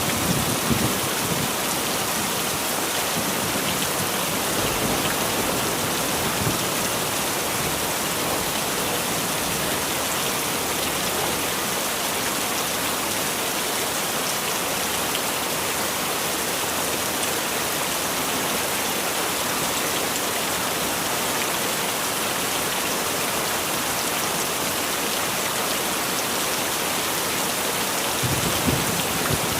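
Heavy rain falling steadily, an even dense hiss. Brief low rumbles of thunder come right at the start and again near the end.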